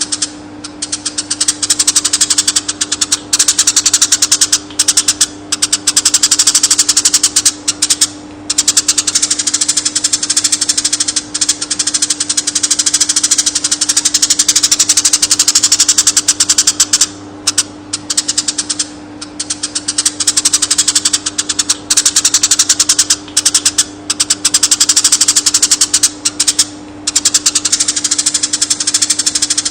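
Konin songbird singing a very rapid, buzzing, rattling chatter in long runs with short breaks, over a steady low electrical hum. This is the kind of recording played to caged songbirds so they learn the song.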